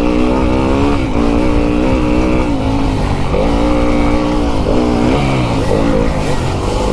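Fantic enduro dirt bike engine under riding load, its pitch climbing and dropping several times as the throttle is worked and gears change.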